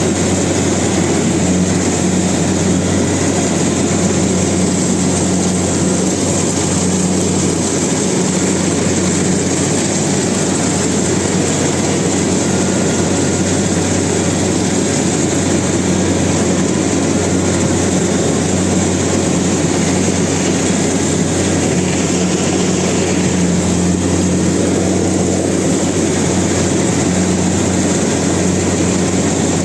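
Heavy farm diesel engine running steadily under load, a constant low drone with a thick mechanical rumble.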